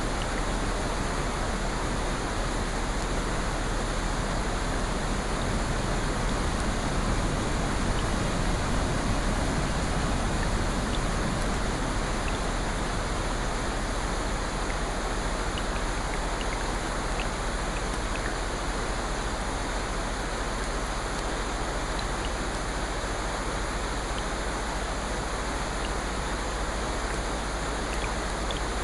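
Steady rushing water noise with a slight swell about a third of the way in and a few faint ticks scattered through it.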